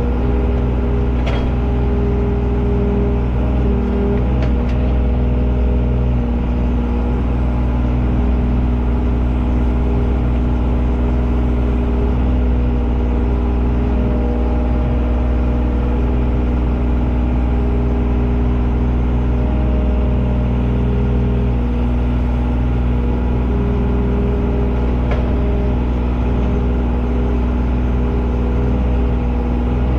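A large engine running steadily at a constant speed, with small shifts in its tone now and then.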